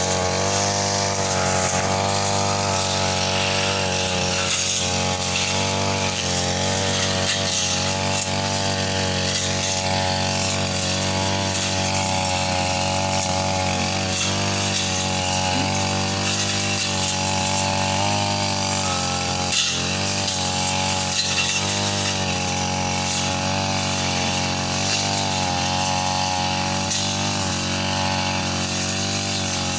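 Brush cutter (grass-cutting machine) engine running steadily at high speed while cutting grass, its pitch wavering slightly as the load changes. A couple of brief knocks come about two-thirds of the way through.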